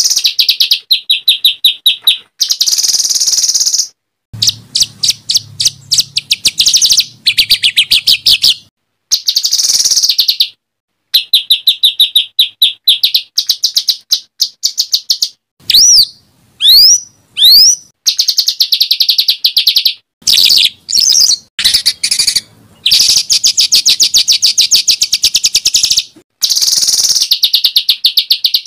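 Harsh, rapid chattering trills and fast runs of repeated notes from songbirds, broken by a few sharp sweeping whistles about halfway through. Phrases start and stop abruptly, as in an edited masteran tutor recording of 'tembakan kasar' calls used to teach competition birds.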